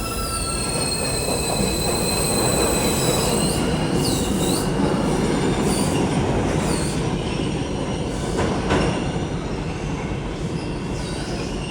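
R160 subway train running between stations with a steady rumble and high-pitched steel wheel squeal, a held squeal for the first few seconds that then dips and wavers in pitch several times. A single sharp knock comes about eight and a half seconds in.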